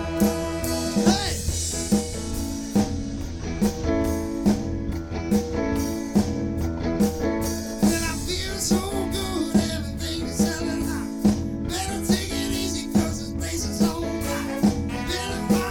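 Live soul band playing: a drum kit keeps a steady beat under guitar and held chords.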